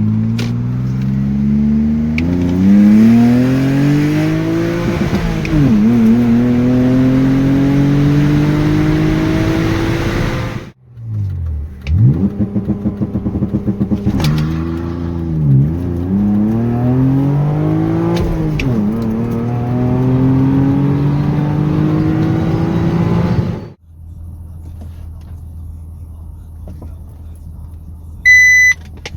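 BMW E39 523i's 2.5-litre M52TU straight-six at full throttle, accelerating through the gears in two pulls: the pitch climbs steadily in each gear and drops sharply at each gear change. After the second pull it cuts off suddenly to a low steady hum, and a short electronic beep sounds near the end.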